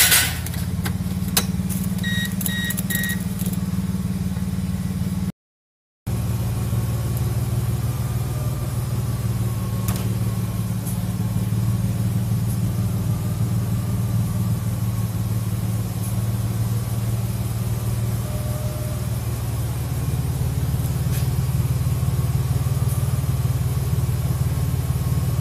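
Mercedes-Benz car engine catching at the start and settling into a steady idle. Three short electronic beeps sound about two seconds in, and the sound cuts out for about half a second near the six-second mark before the idle carries on.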